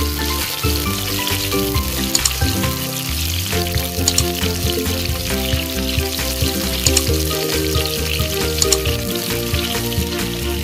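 Green bell pepper pieces sizzling in hot oil in a frying pan as a spatula stirs them, with a fine crackling hiss. Background music with a melody plays throughout.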